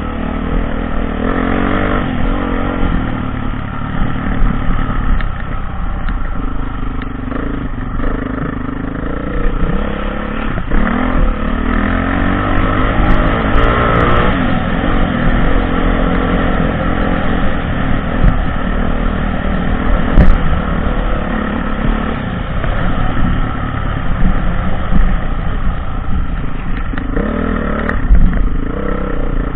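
Dirt bike engine being ridden off-road, revving up and dropping back again and again as the throttle opens and closes.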